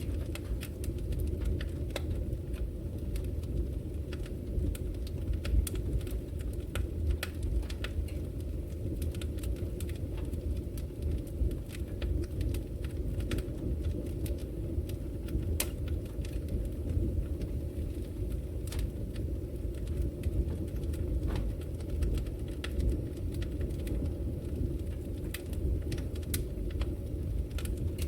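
Wood fire burning in a brick fireplace: a steady low rumble of the flames with frequent sharp, irregular crackles and pops.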